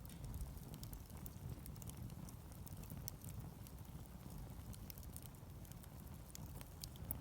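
Wood fire crackling, with sharp scattered pops over a steady low rumble.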